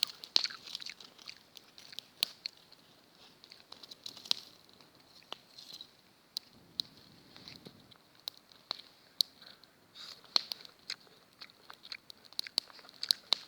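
A person biting and chewing slices of crisp apple close to the microphone, with irregular crunches throughout.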